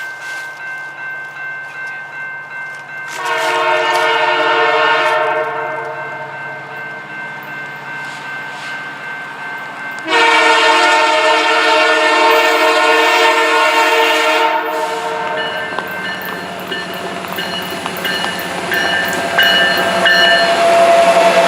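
Canadian Pacific Holiday Train locomotive horn sounding two long blasts, the second about twice as long as the first, over an evenly pulsing ringing like a grade-crossing bell. After the second blast the train rumbles past.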